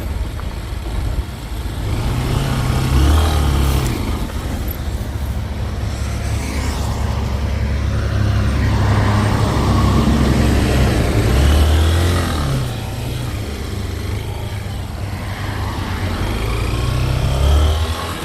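Honda XRE 190 motorcycle's single-cylinder engine running while the bike is ridden. The engine note rises and falls several times with the throttle.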